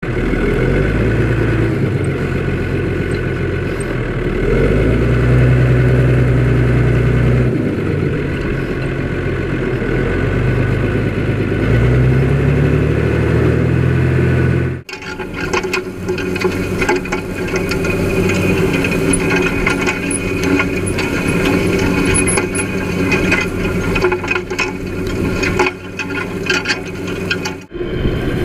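Farm tractor engine running loud and steady, its pitch stepping up and down a few times as the revs change. About halfway through the sound cuts abruptly to a noisier stretch of rattling and clanking machinery over a fainter engine hum.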